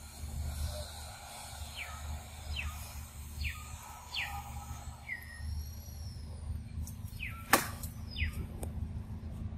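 Forest ambience: a bird gives a series of short, quick downward-sliding call notes, roughly one a second, over a low wind rumble, with one sharp click about seven and a half seconds in.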